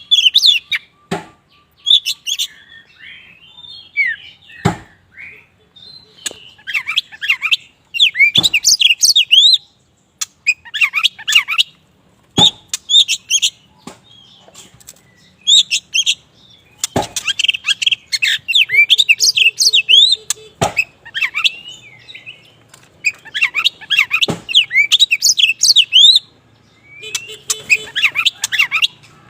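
Oriental magpie-robin of the black 'kacer wulung' form singing vigorously: bursts of rapid, high, sweeping whistles and chirps, one to three seconds each, with short pauses between. Sharp clicks sound now and then between the phrases.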